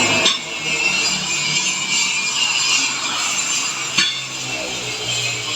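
Hand-tool work on a truck's brake fittings: metal scraping and handling noise, with a sharp knock near the start and another about four seconds in.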